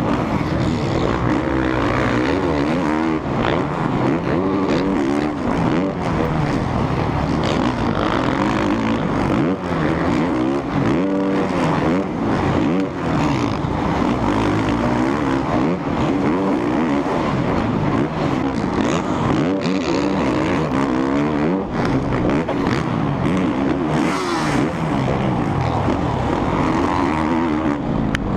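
Several supercross dirt bikes racing, their engines revving hard and overlapping, each one's pitch rising and falling sharply.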